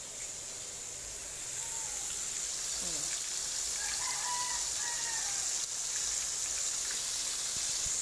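Breaded chicken breast pieces frying in hot oil, a steady sizzle that grows a little louder. A rooster crows once around the middle.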